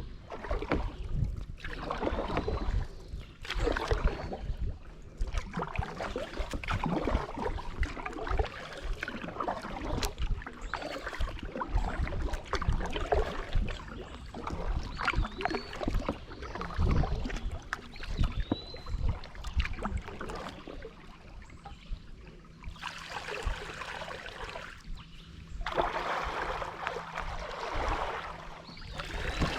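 Kayak paddle strokes from a Wilderness Systems Tarpon 105, the blades dipping and splashing in a steady rhythm with water moving between strokes.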